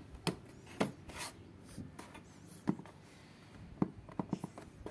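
Plastic fuse box cover being pressed down onto the box: several sharp plastic clicks with light rubbing between them as its clips are snapped into place.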